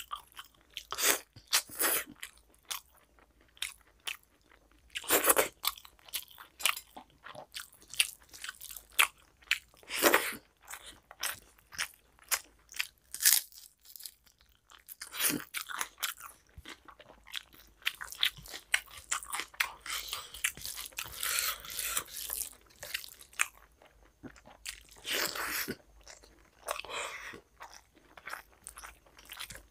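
Close-miked chewing and wet mouth sounds of someone eating rice with mutton curry by hand: irregular smacks and clicks, with a short lull about halfway through.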